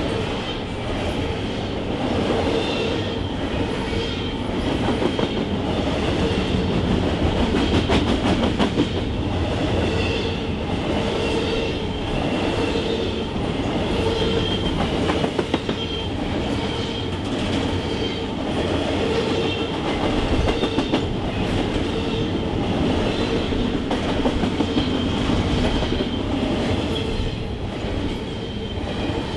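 Freight train cars rolling steadily past, wheels clicking over the rail joints with a thin, steady squeal from the wheels.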